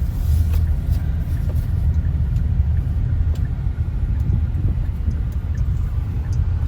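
Steady low rumble of a road vehicle on the move.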